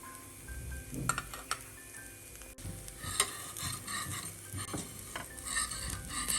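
Food frying in a pan, sizzling, while a spatula stirs and scrapes against it, with irregular clicks and a sharp knock about three seconds in.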